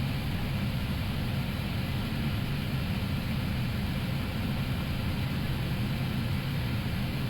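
Steady low rumble of airflow and engine noise inside an Airbus A321neo cockpit on short final approach, seconds before touchdown.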